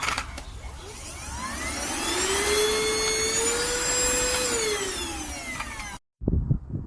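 Enolux LPMY-017 dust mite vacuum cleaner's motor spinning up to a high whine, holding speed for a couple of seconds, then winding down.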